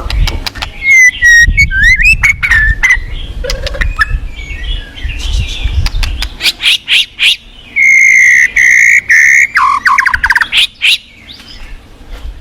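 White-rumped shama (murai batu) singing: varied sliding whistles and sharp clicks, a long held whistle past the middle and a fast rattling trill near the end. Under it, the low rush of fast-flowing river water, which fades after about halfway.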